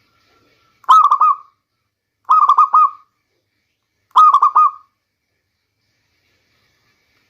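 Zebra dove (local perkutut) cooing three times: each call a short phrase of three or four quick rolling notes, the calls a second and a half to two seconds apart.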